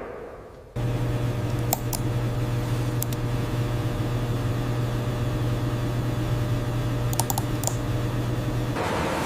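A steady low hum sets in abruptly just under a second in, after a fading whoosh, and stops shortly before the end. A few sharp, scattered clicks like key taps fall over it.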